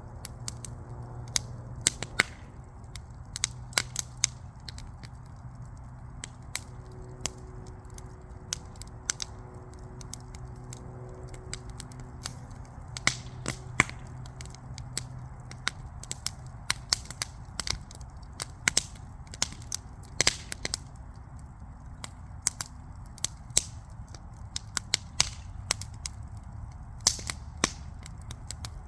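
Backyard fire crackling: frequent sharp, irregular pops and snaps over a low, steady rush of burning.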